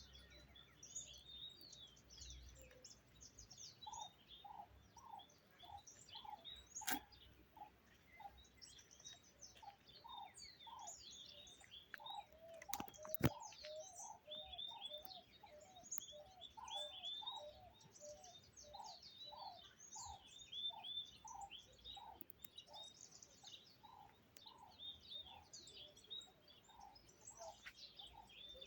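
Birds singing: many short high chirps over a run of repeated lower whistled notes, with two sharp clicks along the way.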